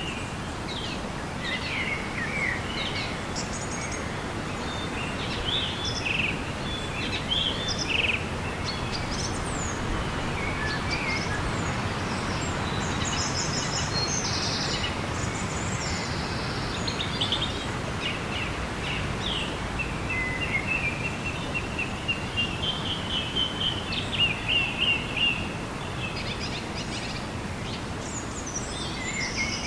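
Rainforest ambience: many birds calling in short chirps and whistles over a steady background hiss, with a fast run of repeated notes about two-thirds of the way through.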